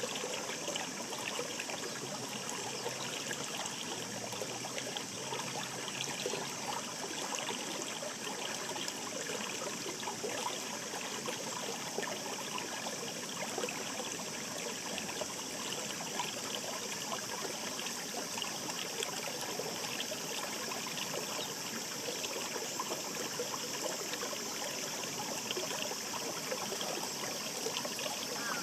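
Shallow stream babbling steadily: a constant rush of running water, flecked with many small trickles and splashes.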